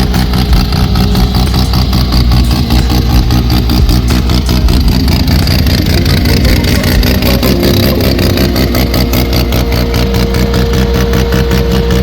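A car engine running loudly, with a rapid pulsing exhaust note.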